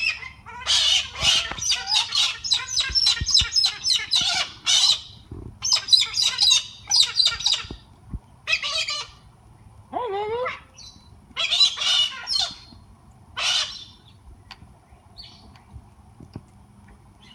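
Pet parrots squawking and chirping in a quick run of calls for the first five seconds, then in separate bursts, with one lower, falling call about ten seconds in. The calls thin out to a few faint chirps after about fourteen seconds.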